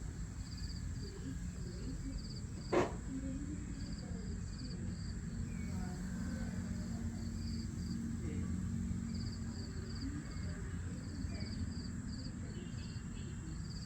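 Crickets chirping in short pulsed trills, repeated steadily over a low, steady rumble of outdoor ambience, with one sharp click about three seconds in.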